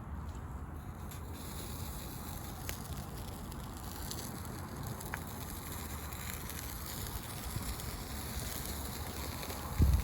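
Campfire burning with faint scattered crackles over a steady low rumble, and a louder low bump near the end.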